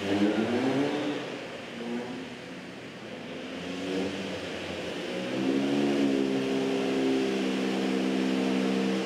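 Toyota Vios race car engine revving as the car moves off at low speed. Its note rises in the first second, eases, then climbs again about five seconds in and holds steady.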